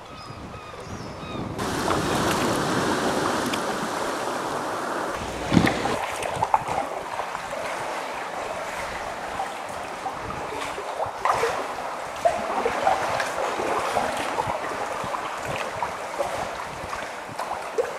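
Sea water lapping and sloshing around a sea kayak as it is paddled, with a few sharper splashes and some wind on the microphone.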